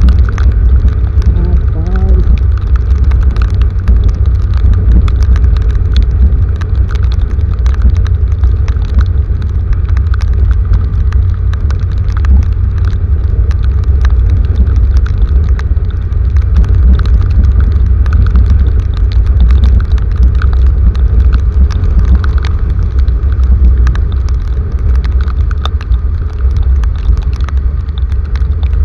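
Heavy rain falling, with many sharp drop hits over a loud, steady low rumble.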